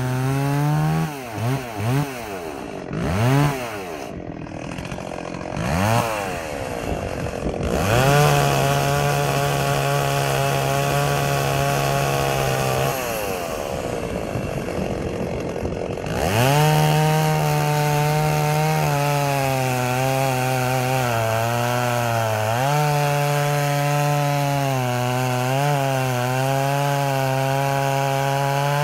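Stihl 038 Magnum two-stroke chainsaw, revved up and down several times for the first few seconds, then held at full throttle and cutting through wood, its pitch dipping now and then as the chain takes load.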